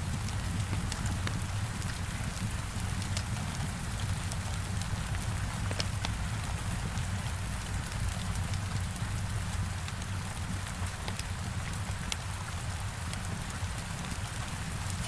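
Heavy rain beating steadily on a window, with a low rumble underneath and scattered sharp crackles and pops of a wood fire.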